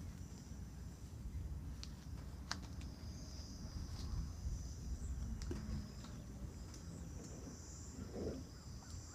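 Insects drone steadily in a high band over low outdoor rumble, with a few faint clicks.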